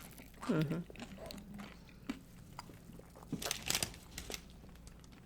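Crunchy tortilla chips being bitten and chewed: a scatter of sharp crunches and crackles, thickest about three and a half seconds in. A brief vocal sound about half a second in.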